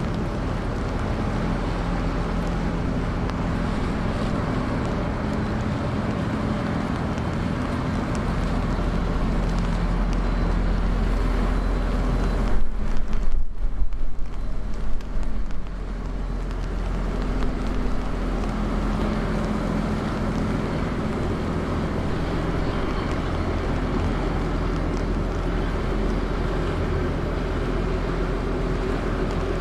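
Steady low engine drone of a sand-carrying river boat, with wind on the microphone. About halfway through, a few seconds of uneven buffeting break in.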